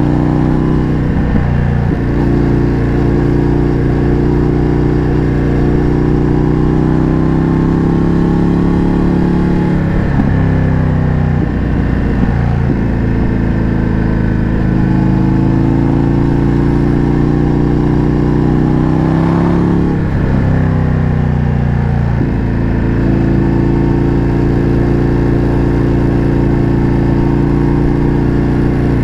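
Indian FTR 1200's V-twin engine running through an Akrapovič exhaust under way at road speed. Its steady note dips briefly in pitch several times before settling again.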